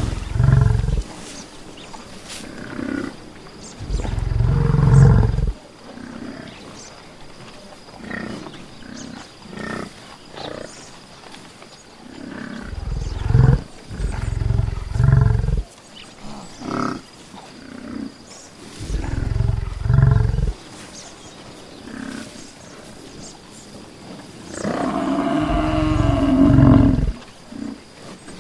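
Buffalo giving deep, low bellowing calls, about six in all, spaced several seconds apart; the last one, near the end, is longer and more drawn out than the others.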